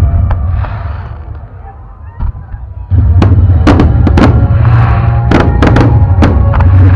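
Fireworks going off over loud music. The sound fades over the first two seconds, then comes back abruptly about three seconds in with a rapid string of sharp bangs and crackles.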